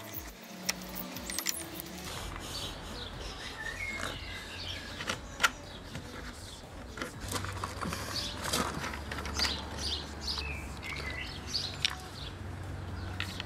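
Birds chirping and calling in short, scattered phrases, with occasional sharp clicks and taps of hard plastic as a kayak's drain plug fitting is handled and unscrewed. A low steady hum comes in about halfway through.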